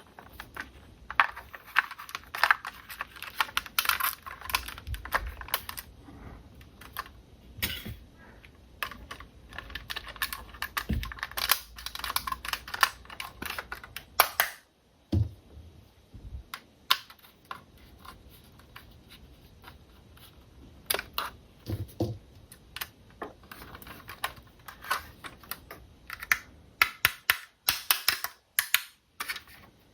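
Irregular sharp plastic clicks, taps and rustles from hands handling a toy remote-control car and its packaging. A few dull thumps come about halfway through and again a little later.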